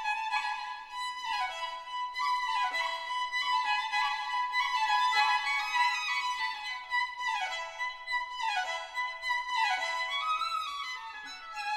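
Classical music on violin, with quick descending runs of notes repeating about once a second.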